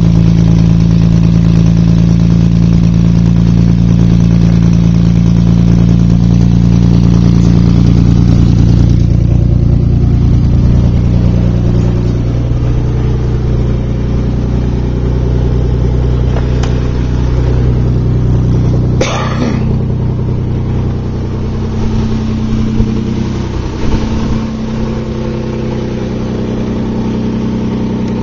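Nissan 300ZX's V6 engine idling steadily through aftermarket dual cannon-style exhausts. It is louder for the first nine seconds, then settles a little quieter. There is a brief noise about two-thirds of the way through.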